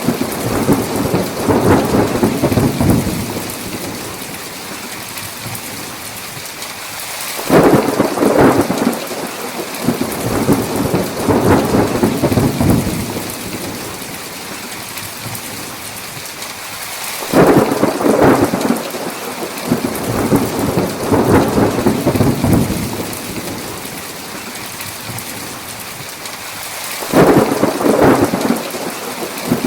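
Steady heavy rain with thunder. Three thunder claps come about ten seconds apart, each starting suddenly and rumbling away over several seconds.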